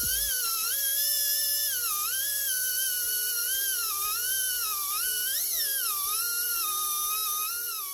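Small air die grinder with a thin cut-off disc cutting through a transmission shaft: a high-pitched whine over a hiss, its pitch dipping and recovering again and again as the disc bites under load.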